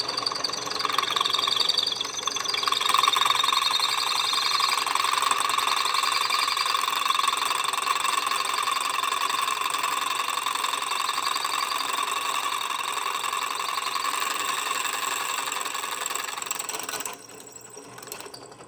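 Electric drill running with a steady whine, its bit boring through a metal cleat wetted with PB Blaster penetrating oil to keep the bit cool. The drill stops about 17 seconds in.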